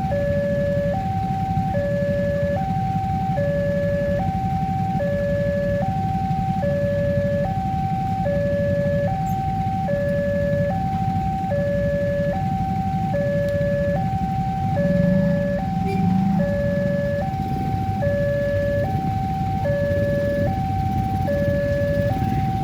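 Railway level-crossing warning alarm sounding, an electronic signal that alternates evenly between a higher and a lower tone, each held about 0.8 s, which warns that a train is approaching. A steady low rumble runs underneath.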